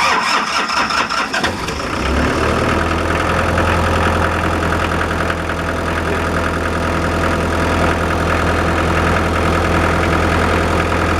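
Diesel generator engine just started, running unevenly for about two seconds, then settling into a steady idle.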